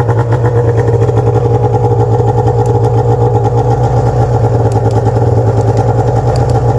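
1997 Arctic Cat EXT 580 EFI snowmobile's two-stroke twin engine idling steadily.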